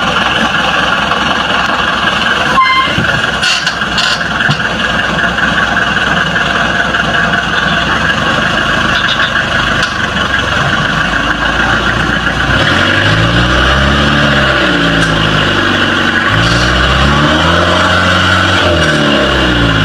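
Truck engine running under heavy steady noise, then from about two-thirds of the way in revving up and down over and over, each rise and fall lasting a few seconds.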